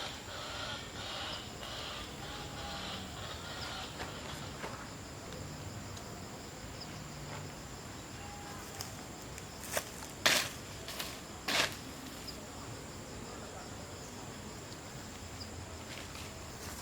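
Insects chirring steadily with a constant high buzz. About ten seconds in, three or four sharp knocks come close together.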